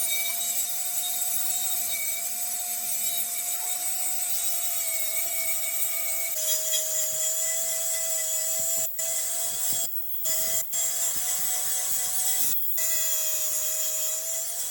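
Small power tool running with a steady, slightly wavering whine while an abrasive rubs against the metal of a wheel rim. The sound breaks off briefly a few times in the second half.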